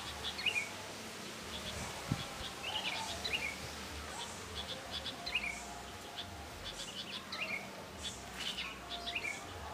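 Birds chirping: a short, falling call repeated every second or two, with faint ticking calls between. A single low thump comes about two seconds in.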